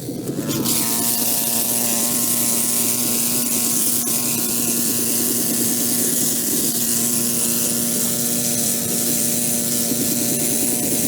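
A small motor droning steadily with a hiss of spray over it. The sound dips for a moment right at the start, then carries on unchanged.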